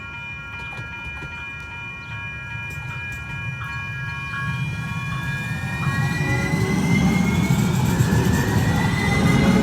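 A train approaching, its low rumble swelling steadily louder over the second half. A ringing chord of several steady high tones sounds over it until about six seconds in, and a rising whine comes in near the end.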